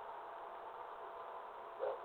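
A short animal call in two parts near the end, over a steady hiss with a faint steady tone.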